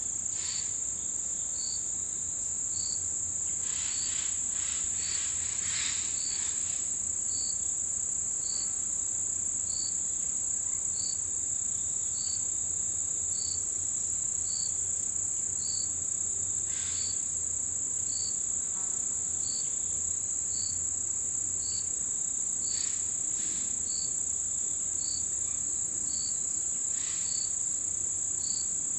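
Autumn insects calling in chorus: a continuous high-pitched trill, with another insect giving short, even chirps about once a second. A few brief scratchy sounds come in now and then.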